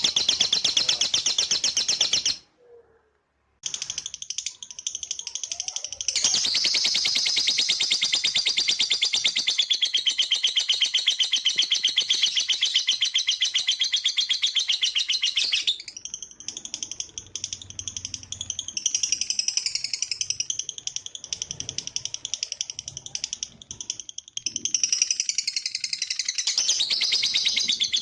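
Lovebird's long ngekek: a very fast, continuous chatter of repeated high notes, cut by a brief silence about two and a half seconds in. About halfway through it gives way to a more varied, wavering warble.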